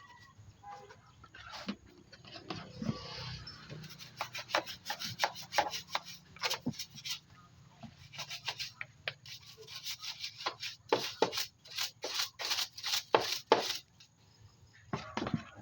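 Quick, irregular rubbing strokes, a brush or rag scrubbing a hard surface, with a brief pause near the end.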